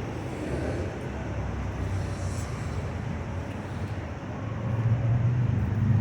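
Low rumble of road traffic, a vehicle engine growing louder near the end.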